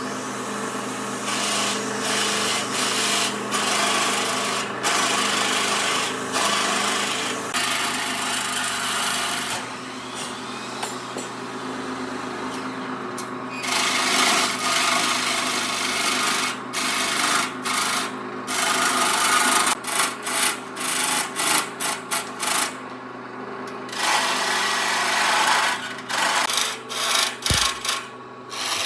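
Abrasive rubbing on wood: a rough, continuous scraping that breaks into short strokes with brief pauses in the second half.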